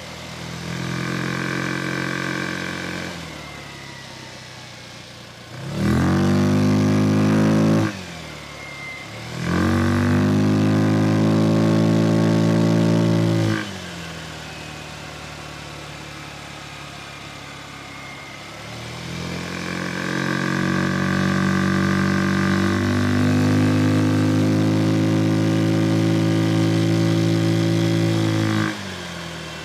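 Vespa Sprint 150 scooter engine, an air-cooled single-cylinder four-stroke driving a Malossi CVT kit, heard while riding. It is opened up in four throttle pulls, the revs climbing and then holding steady as the CVT takes up, and drops back to a low idle or coast between them. The second pull rises steeply and is chopped short; the longest, last one steps up once midway and cuts off sharply near the end.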